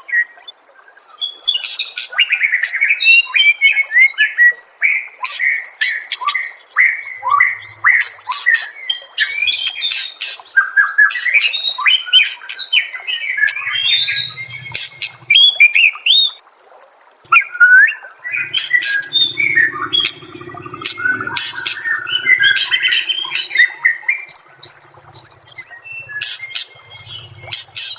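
White-rumped shama (murai batu) singing a long, varied song of rapid whistles and sharp chattering notes, with a brief break a little past halfway.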